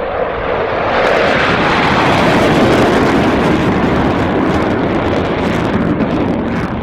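Military jet flying past low and fast at about 500 knots: a broad jet roar that swells over the first second, stays loud, and starts to fade near the end.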